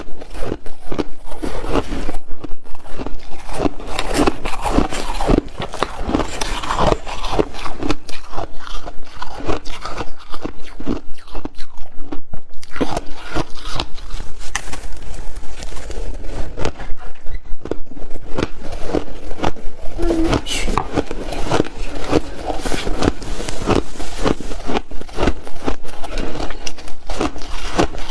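A person chewing ice close to the microphone: rapid, repeated crunches as the ice is bitten and ground between the teeth.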